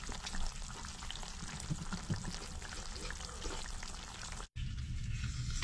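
A pot of chicken stew bubbling and simmering on a stove, a busy crackly patter of small bubbles. About four and a half seconds in it cuts off abruptly and gives way to a steadier low background.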